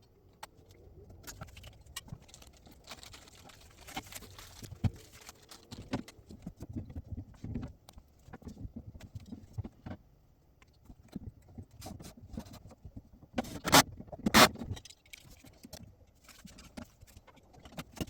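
Handling noise of a plastic door handle being fitted to a fridge-freezer door: scattered clicks, taps and rustling, with two loud knocks close together about three-quarters of the way through.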